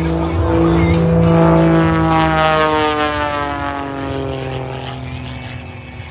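Douglas A-1 Skyraider's big radial engine and propeller droning loudly as the plane passes. The pitch drops as it goes by, then the sound fades away.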